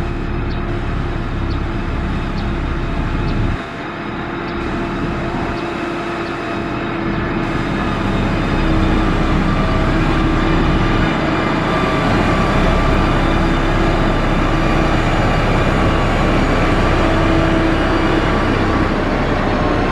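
Heavy construction machine engine running steadily with a low pulsing rumble and a steady whine above it, growing louder about eight seconds in.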